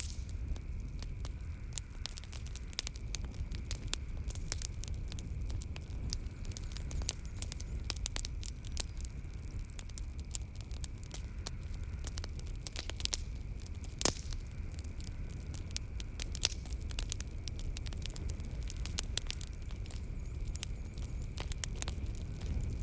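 Wood fire burning in a fireplace: a steady low rumble of flames with frequent, irregular sharp crackles and pops, one louder crack about two-thirds of the way through. A faint steady high chirring of night insects sits beneath it.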